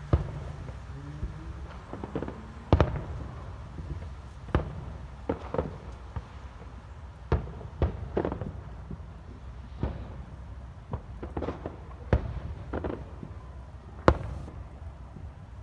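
Aerial firework shells bursting in a display: an irregular series of sharp bangs, a couple of seconds apart or closer, the loudest just at the start, about three seconds in, and near the end.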